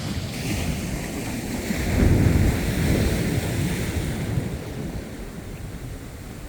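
Ocean surf washing in, with wind buffeting the microphone. The wash swells about two seconds in and then eases off.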